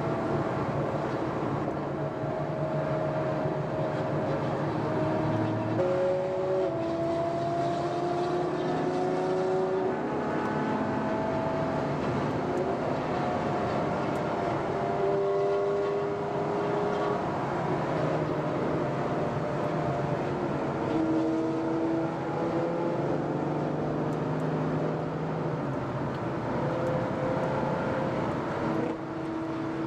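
Ferrari FF's V12 engine running on the move, its pitch rising and falling with the throttle and jumping every few seconds as it changes gear.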